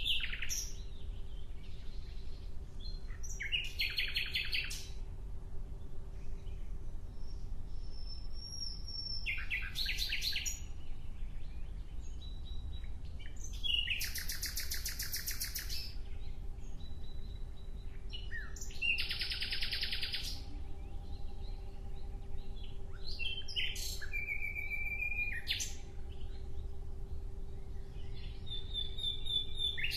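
A songbird singing short phrases of rapid chirps and trills, about six phrases spaced roughly five seconds apart, over a faint steady hum.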